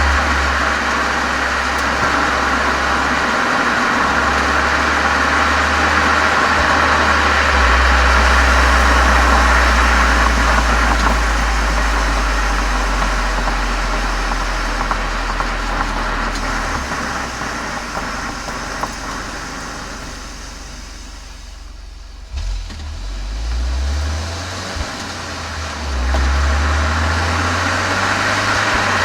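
Volkswagen Golf 7 GTI's turbocharged 2.0-litre four-cylinder heard through a Cox aftermarket muffler and chamber, picked up by a microphone outside at the rear of the car: a steady low exhaust rumble with a hiss over it. It fades to its quietest about twenty seconds in, then rises again twice near the end.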